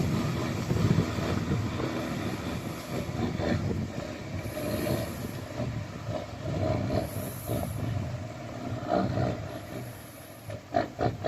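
Ford 9000 tandem-axle truck's diesel engine running under way, a deep, uneven rumble, with a few sharp knocks about a second before the end.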